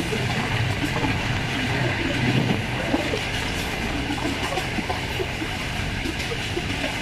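Passenger train running fast on jointed track, heard from aboard: a steady rumble of wheels on rail with scattered small clicks.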